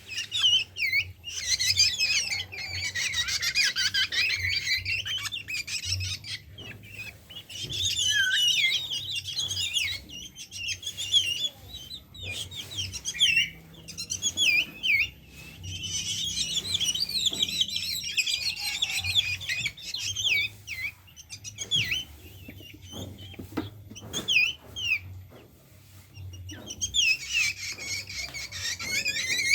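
Young drongo chirping rapidly and high-pitched in bouts of a few seconds, with short gaps between.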